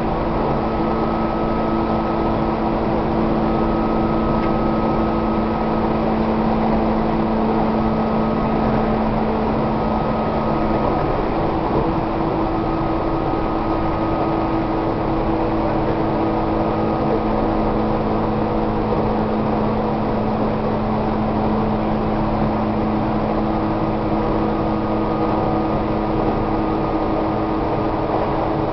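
Tobu 1800 series electric train running at a steady speed, heard inside the passenger car: a continuous rumble of wheels on rail with a steady whine from the motors and gears.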